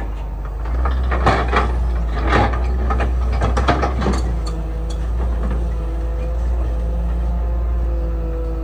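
Excavator's diesel engine running steadily, with a cluster of sharp metallic clanks and knocks in the first few seconds, then a steady faint whine over the engine.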